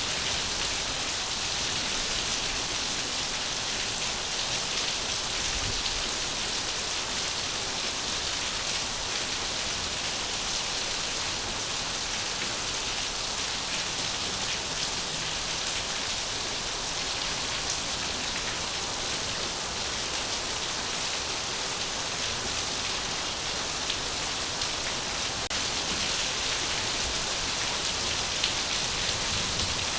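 Steady rain falling, an even hiss of many drops with fine patters throughout.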